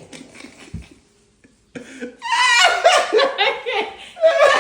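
Loud laughter in quick voiced bursts, breaking out about two seconds in after a quiet moment.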